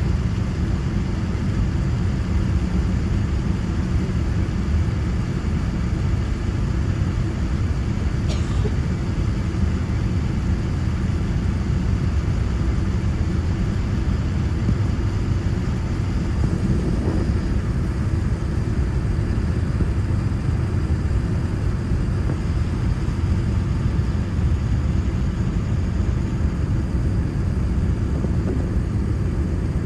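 Steady low rumble of a Boeing 787-9 heard from inside the cabin: engine and airflow noise running at an even level.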